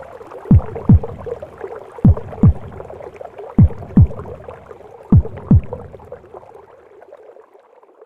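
Womb sound with a mother's heartbeat: slow lub-dub pairs of deep thuds, one pair about every second and a half, over a steady whooshing rush. It fades out near the end.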